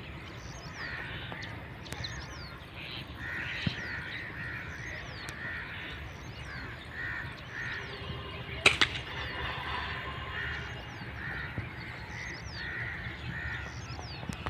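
Birds calling in a long run of short, repeated calls, about two a second. A single sharp crack a little past halfway is the loudest sound.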